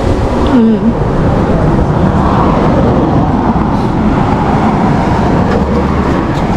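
Steady low rumbling of wind buffeting the microphone, loud and unbroken, with a brief voice-like sound about half a second in.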